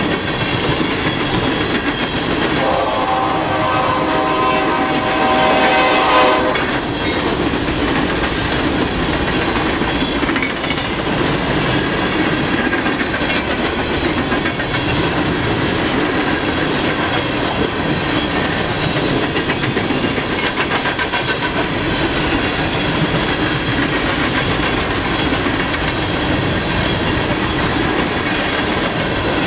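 Empty coal cars of a freight train rolling past with a steady rumble and the clickety-clack of wheels over rail joints. About three seconds in, a diesel locomotive horn sounds one long blast of about four seconds.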